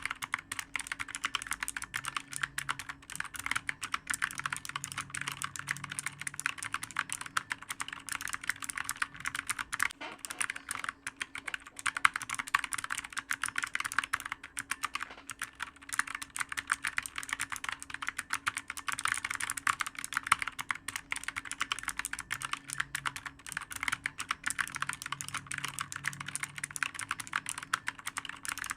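Computer keyboard typed on rapidly and continuously: a dense, unbroken run of clicky keystrokes.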